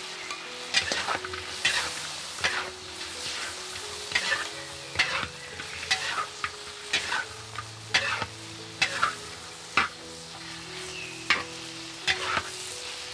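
Food frying and sizzling in a pan while being stirred, the utensil scraping the pan about once a second.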